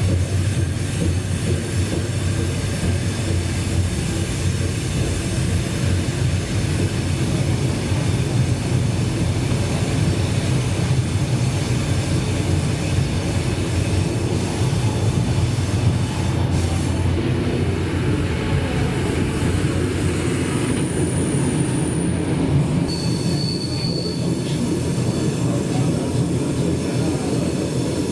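Flåm Railway train running on the track, heard from the carriage: a steady low rumble of wheels on rails, with short high-pitched wheel squeals from about twenty seconds in.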